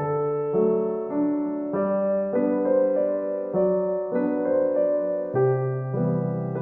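Soft background piano music, a gentle melody of notes struck about every half second over low chords.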